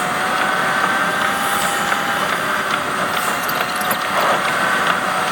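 Inside the cab of a 26-foot box truck under way: steady engine and road noise with a steady whine and light rattling clicks.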